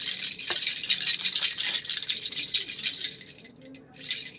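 A small rattle toy rattling rapidly as a kitten plays with it. It stops about three seconds in, with one brief rattle near the end.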